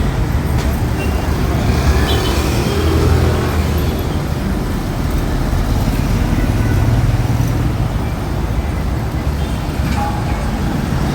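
Busy road traffic: a continuous din of passing motor vehicles with a steady low engine rumble.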